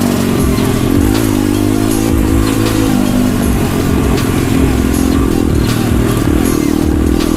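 Pit bike engine running steadily, its pitch rising and falling a little with the throttle.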